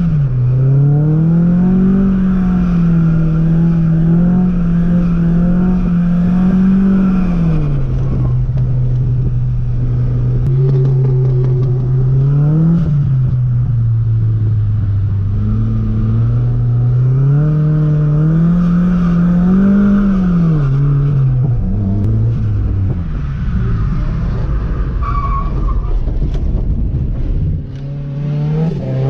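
Nissan Silvia S15's engine revving up and down while drifting, likely in third gear, its revs rising and falling repeatedly and holding high for several seconds at a time.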